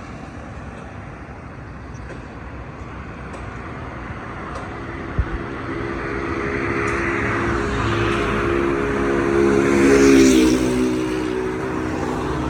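A motor vehicle's engine grows steadily louder as it approaches, loudest about ten seconds in, where its pitch dips slightly as it passes.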